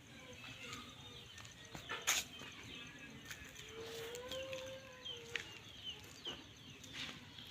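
Quiet rural ambience: small birds chirping again and again, with a long animal call that rises and falls about four seconds in. A single sharp knock about two seconds in.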